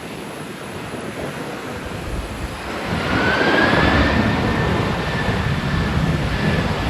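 Airbus A330-300's twin GE CF6 turbofans on a landing approach, their roar swelling a few seconds in, with a high engine whine that rises and then holds steady.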